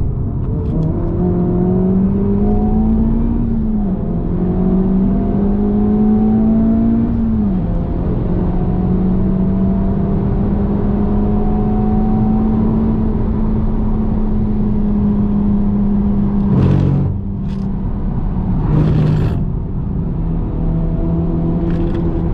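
2023 Honda Civic Type R FL5's turbocharged four-cylinder engine heard from inside the cabin under hard acceleration: the note climbs, drops on an upshift, climbs again and drops on a second upshift, then holds steady at high revs. About three-quarters through, two short loud rushes of noise break in, after which the engine note settles a little lower and steady.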